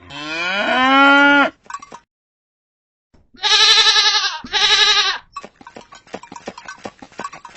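A bull's call at the start, low and rising, then held for about a second and a half. After a pause come two loud, wavering bleats about three and a half seconds in, followed by a rapid scatter of small clicks and clinks.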